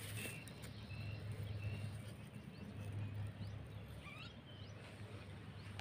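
Quiet field ambience: faint, scattered short bird chirps over a low steady hum.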